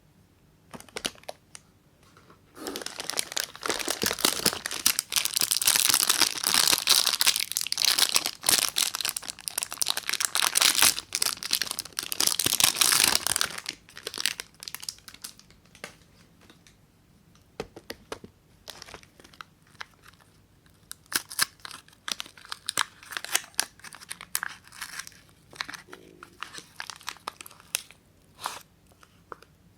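Soap wrapper being torn open and crinkled: a dense, continuous run of tearing and rustling for about ten seconds, then scattered crackles and rustles.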